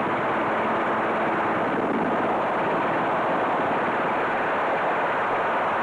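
Robinson R22 helicopter's engine and rotor noise in flight, a steady even drone.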